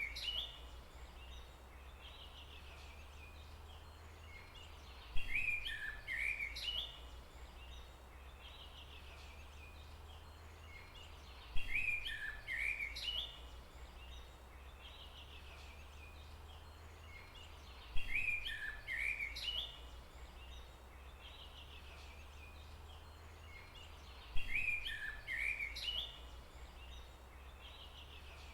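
Birdsong: the same short, chirpy song phrase repeats about every six and a half seconds, five times, over a steady low rumble.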